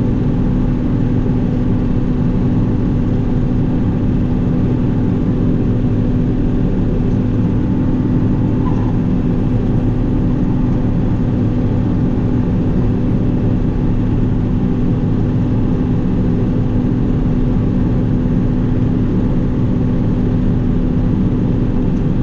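Combine harvester running steadily while harvesting corn: an even, unbroken engine and machinery drone.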